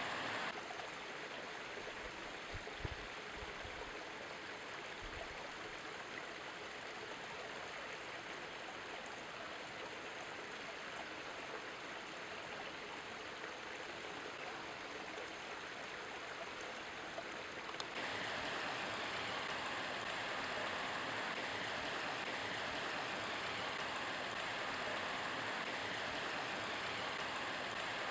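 Steady outdoor rushing noise with no clear events, of the kind running water or wind makes. It turns brighter and a little louder about two-thirds of the way through, and a few faint low bumps come early.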